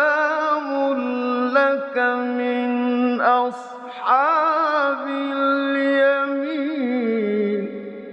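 A man's voice in melodic Quran recitation (tajwid), holding long drawn-out notes with a wavering ornamented run in the middle. The last note fades into reverberation near the end.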